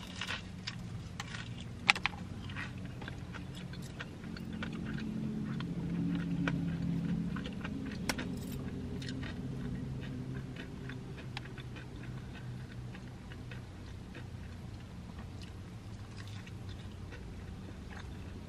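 Close-up chewing of a bite of extra crispy fried chicken, with many small crackles from the crunchy breading and a sharper click about two seconds in.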